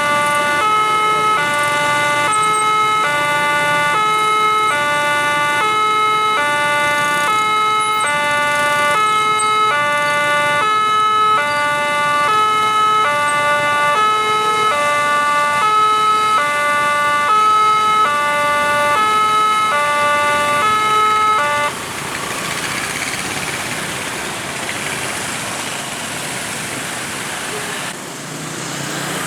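Railway level-crossing warning alarm sounding an electronic two-tone ding-dong, alternating evenly about once every one and a half seconds. It cuts off abruptly near the end, leaving the steady noise of road traffic.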